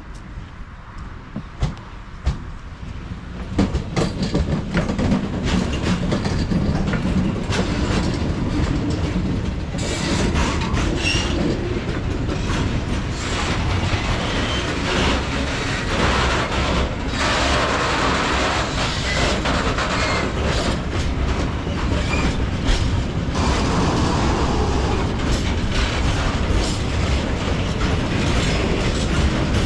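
Freight train passing close by: its wheels click over the rail joints at first, then from about three seconds in a loud, continuous rumble of wagons with repeated clickety-clack knocks runs on.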